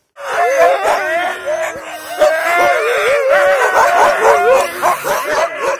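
A team of sled dogs howling and yelping together, several wavering voices overlapping, starting abruptly.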